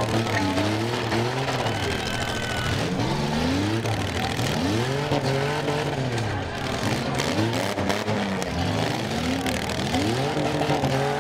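Stock six-cylinder demolition derby car engines revved again and again, each rev rising and falling in pitch over about a second, over a steady din.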